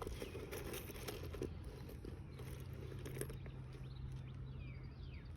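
Quiet outdoor ambience with a low steady hum and light rustling, then, from about two-thirds of the way in, a bird calling with quick falling chirps repeated several times.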